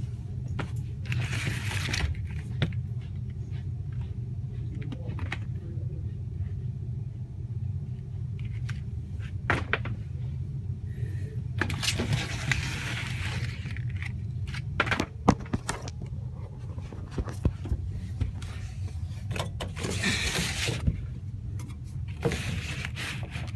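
Steady low hum of running HVAC machinery, with scattered clicks and knocks and three short scraping, rustling bursts of handling noise about a second in, midway, and near the end.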